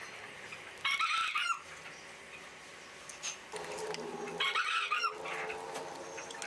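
Two short animal calls, one about a second in and another about four and a half seconds in, over a faint background.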